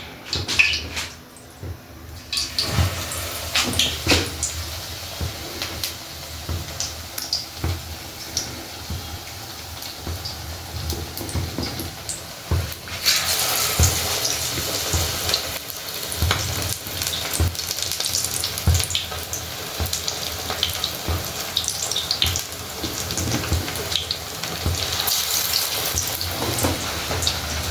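Kitchen work sounds: scattered knocks and clinks of utensils, with a steady hiss that starts about halfway through and carries on.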